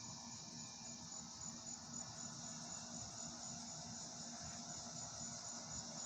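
Outdoor insects chirping in a steady high-pitched chorus, one with an evenly pulsed trill, with a faint low hum underneath.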